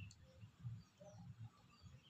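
Near silence, with a few faint, short bird chirps and some soft low bumps.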